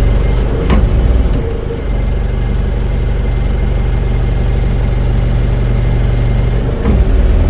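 Big diesel engine running steadily, a little louder in the first second or so and again near the end.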